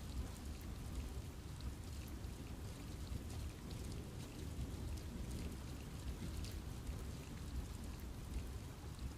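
Steady rain falling in a forest, with a low, even rush and many separate drops ticking on leaves.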